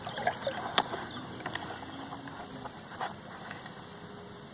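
Fishing-boat ambience: scattered light clicks and knocks, most of them in the first second, over steady wind and water noise with a faint low hum.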